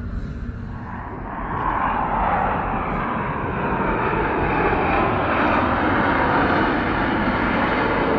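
Jet aircraft noise overhead, swelling about a second in and then staying loud and steady.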